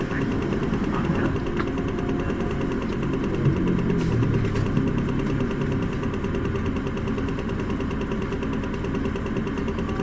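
Isuzu Erga city bus's four-cylinder diesel engine running steadily with a low hum. Its low rumble swells briefly around the middle, with a couple of faint clicks.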